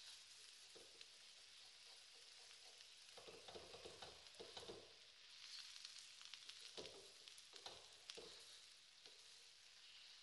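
Beaten egg and mustard greens sizzling quietly in an aluminium wok, with a wooden spatula scraping and pushing through them in two spells of stirring.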